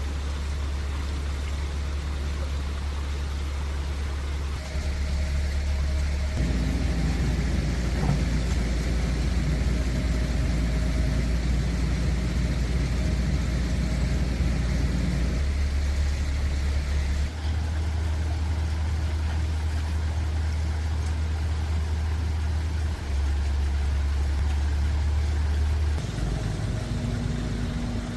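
Steady low mechanical hum of an engine running, shifting abruptly in pitch and level several times.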